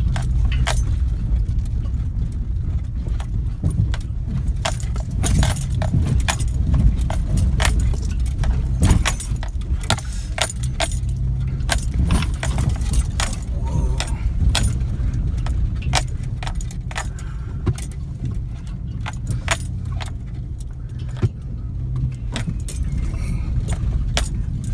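A vehicle engine running at a steady speed with a constant low hum. Many sharp metallic clicks and rattles come on top of it throughout.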